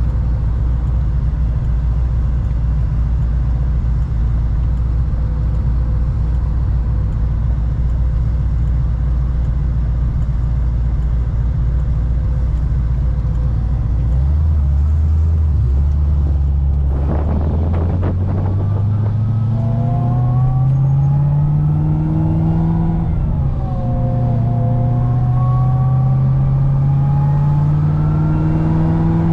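Supercharged LS9 V8 of a C6 Corvette ZR1 running at low, steady revs for about the first half. Then it accelerates, its pitch climbing, drops once at a gear change and climbs again to the end.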